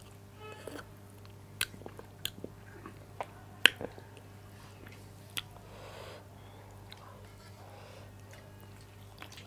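Close-up eating sounds of a person chewing a mouthful of rice and curry, with a handful of sharp clicks and bites, the loudest a little under four seconds in, over a steady low hum.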